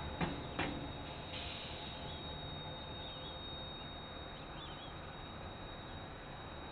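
Rumble of a passing KiwiRail train slowly fading away, with two sharp clicks within the first second and a few faint bird chirps.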